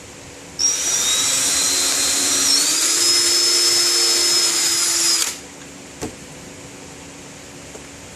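Power drill running for about five seconds while drilling a pilot hole. Its whine steps up in pitch about halfway through, then it stops, with a single click shortly after.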